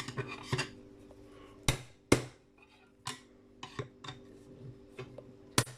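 Sharp metal knocks and clinks as hand tools work a piece of iron off a brass fitting: a few separate strikes, the loudest two close together about two seconds in and another near the end.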